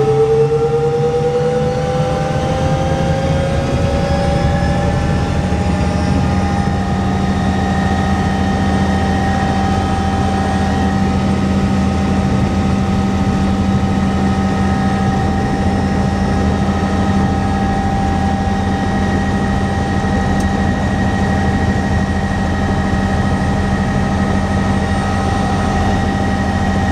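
Helicopter running, a loud steady drone with a whine that rises in pitch over the first several seconds and then holds steady.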